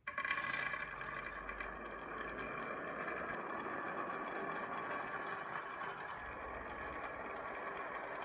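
Marbles rolling along a wooden marble run track, a steady rolling rumble with scattered light clicks, starting suddenly at the very beginning.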